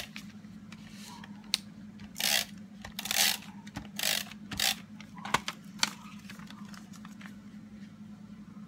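Several short rasping strokes and a few light clicks of a tape runner dispensing adhesive onto card stock while the paper is handled, over a low steady hum.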